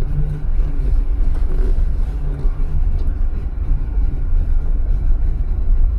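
A Jeep's engine running at low revs with a steady low rumble as the Jeep crawls along a rocky off-road trail.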